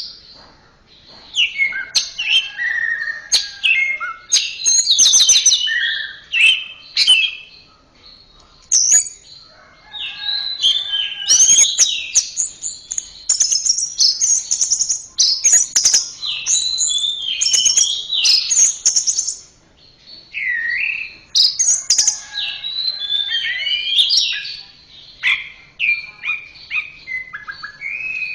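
Orange-headed thrush (anis merah) singing a long, varied song of quick whistled, warbled and chattering phrases, broken by brief pauses about a second in, around a third of the way through, and about two-thirds of the way through.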